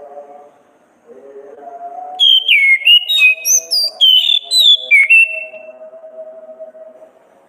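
Chestnut-capped thrush (anis kembang) singing one phrase of loud whistled notes that glide sharply up and down, lasting about three seconds from about two seconds in. A soft background of steady low music runs underneath.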